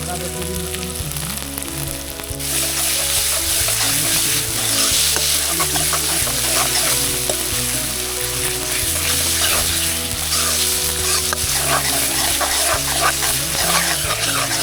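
Capsicum and tomato frying in hot oil in a kadhai over a campfire, sizzling. About two seconds in, the sizzle turns much louder and hissier as the prepared gravy goes into the hot oil. After that comes a stirring clatter.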